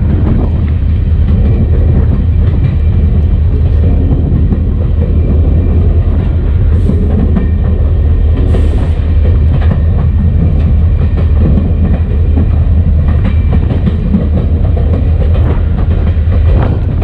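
EMD SD40-2 diesel-electric locomotive underway, with a steady heavy low rumble from its 16-cylinder two-stroke diesel and its wheels on the rail, and scattered clicks over the rail joints. It is heard from outside on the locomotive's short nose, and there are two short hisses near the middle.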